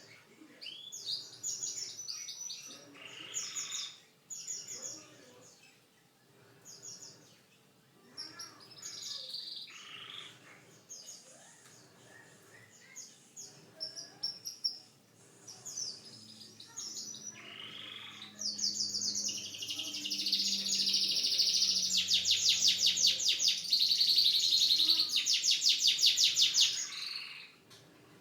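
Domestic canary singing: a string of short, varied high phrases, building past the middle into a long, loud, rapid trill that stops shortly before the end.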